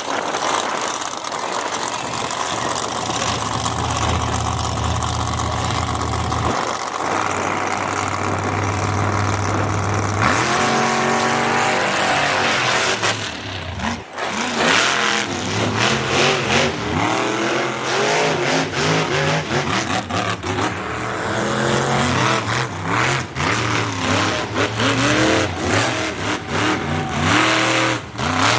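Monster truck engine running at a steady low speed, then from about ten seconds in revving hard, its pitch repeatedly sweeping up and down.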